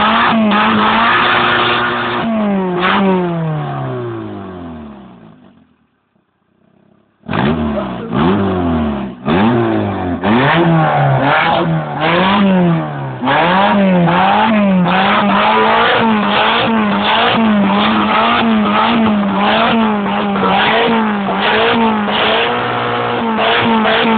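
Renault 19's 1.7-litre Energy four-cylinder petrol engine being revved up and down over and over, about once a second. About three seconds in, the revs fall away and the sound fades out. A little after seven seconds it is running again and the repeated revving carries on.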